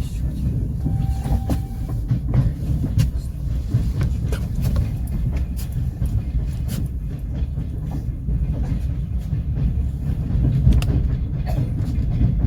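Passenger train carriage running on the rails: a steady low rumble of the wheels with irregular clicks and knocks over the track, and a short steady tone a little over a second in.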